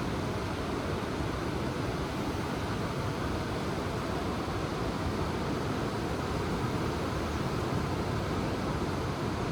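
Ocean surf washing on the shore: a steady, even rushing noise.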